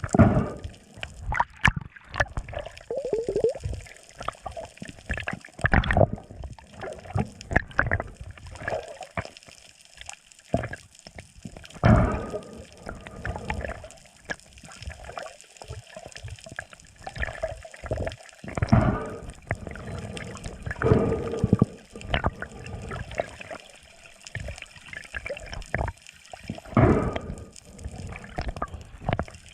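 Sea water sloshing and gurgling around the camera in irregular surges every second or two.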